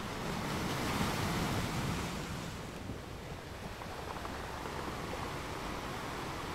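Sea waves washing onto the shore in a continuous surge, one wave swelling about a second in and then easing back.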